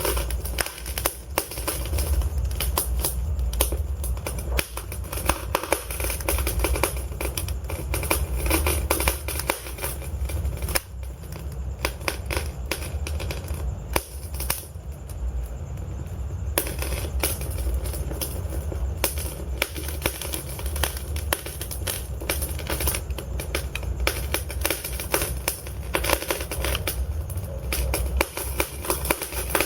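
Logs burning in a fireplace: constant irregular crackles and pops over a low steady rumble of the flames. The crackling thins out for a few seconds in the middle, then picks up again.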